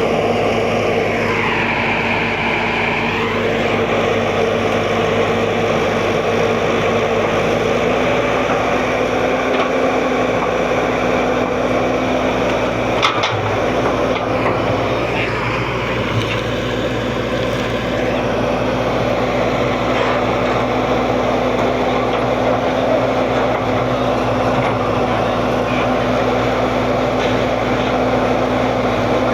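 Excavator's diesel engine running steadily with a constant hum. A single knock comes about halfway through.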